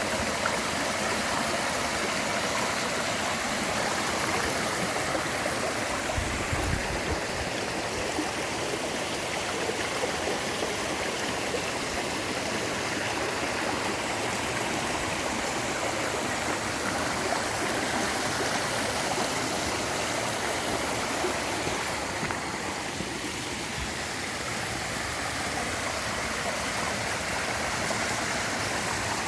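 Clear mountain stream flowing steadily, water running over rocks in a continuous, even rush. A brief low rumble about six seconds in.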